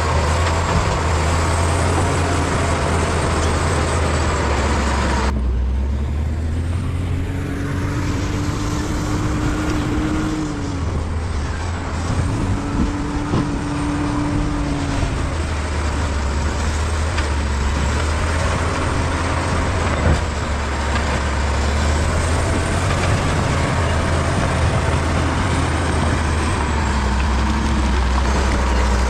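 Bulldozer's diesel engine running steadily under load, with a low, even drone. A rising whine sounds twice in the middle.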